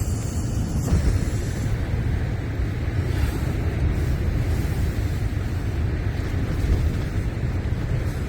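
Strong gale-force wind gusting steadily, with a heavy low rumble of wind buffeting the microphone.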